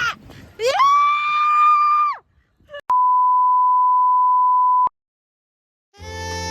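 A steady electronic beep, one pure tone held for about two seconds that starts and stops abruptly. Before it, a richer pitched sound slides up and holds for about a second and a half; music comes in near the end.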